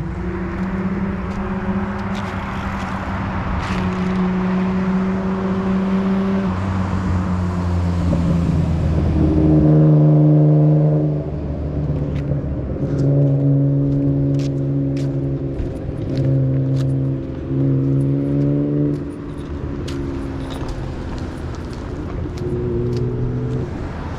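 Car engines running, their note held steady for a second or two at a time and stepping up and down in pitch, with scattered small crackles.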